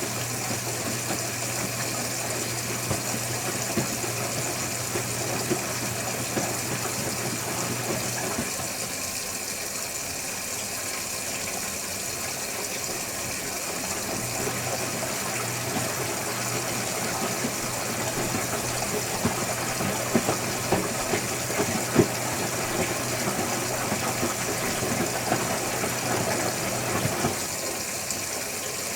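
Electrolux Wascator W355H commercial washing machine running a cycle: water sloshing over a steady motor hum. The hum stops about eight seconds in, resumes some six seconds later and stops again near the end. A few knocks come about two-thirds of the way through.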